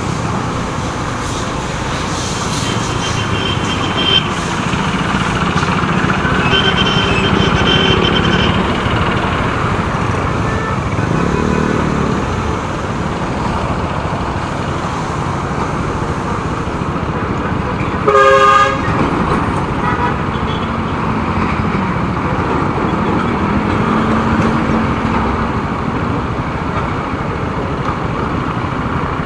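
Motorcycle riding in city traffic: steady engine and road noise, with a vehicle horn honking once, loudly and briefly, about two-thirds of the way in.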